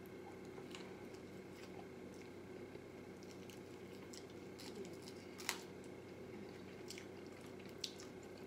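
Quiet chewing and mouth sounds of a man eating fried chicken, with scattered small clicks, the sharpest about five and a half seconds in, over a steady low hum.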